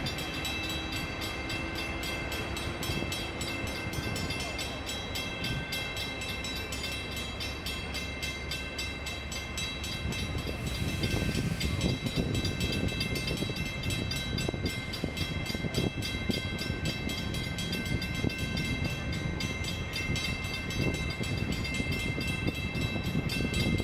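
Train cars rolling past: a continuous rumble and clatter of wheels on rail, growing a little louder about halfway through, with several thin steady high-pitched tones held above it.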